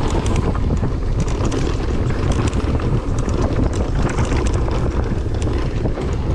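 Wind buffeting the microphone, with a steady low rumble and a run of quick clicks and rattles, typical of a mountain bike descending a rough downhill trail.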